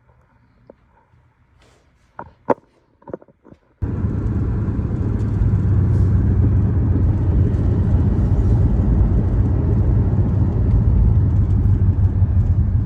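A few light clicks and knocks, then about four seconds in a loud, steady car rumble starts suddenly: road and engine noise of a moving car.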